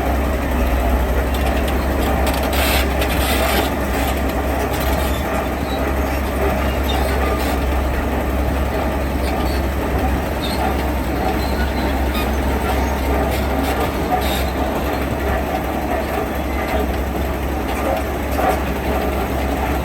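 Heavy diesel construction machinery running steadily, with occasional short clatters and knocks.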